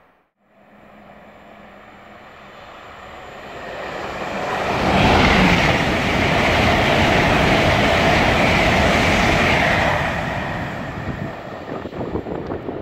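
Hitachi Azuma high-speed passenger train (Class 800/801) running through the station without stopping. A rushing noise of the carriages passing builds up, holds for about five seconds as the train goes by, then fades.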